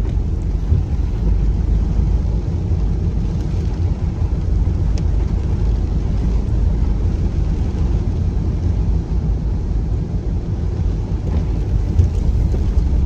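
A car driving, with a steady low rumble of engine and tyre noise heard from inside the cabin.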